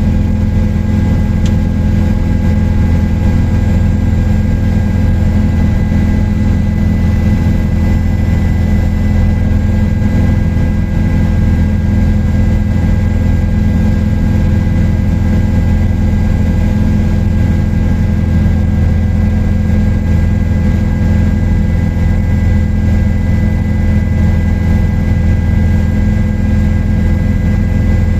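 Helicopter in steady flight: a loud, unchanging drone of engine and rotor, with steady high whining tones above it.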